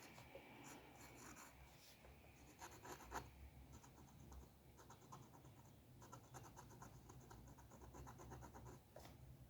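Faint scratching of a drawing tool on paper: runs of quick short strokes with brief pauses between them.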